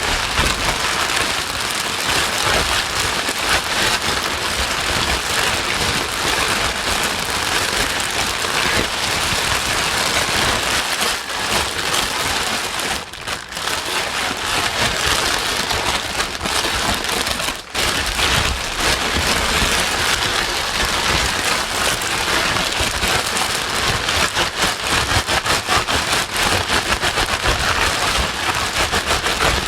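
Steady rain-like hiss used as a white-noise track. There are fine crackly patters all through, and the level dips briefly twice, about 13 and 18 seconds in.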